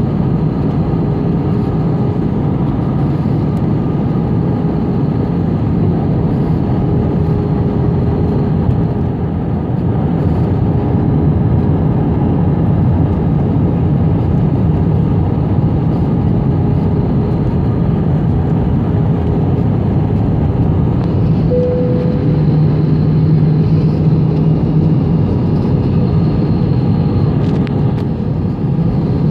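Jet airliner cabin noise on approach: a steady loud rush of engines and airflow with faint steady whine tones over it. A short extra hum comes in about three-quarters of the way through.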